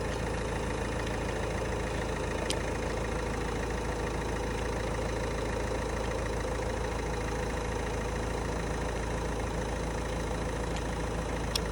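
Peugeot car engine idling steadily just after being started, with two faint clicks.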